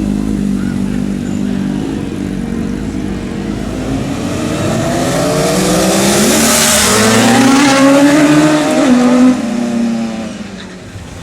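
Sport motorcycle accelerating hard past, its engine note climbing in pitch and growing louder to a peak about nine seconds in, then fading quickly as it moves away.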